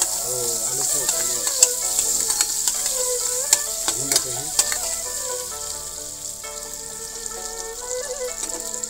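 Potato pieces sizzling as they fry in a small pan, with a steady hiss. A metal spatula stirring them clinks sharply against the pan several times, mostly in the first half.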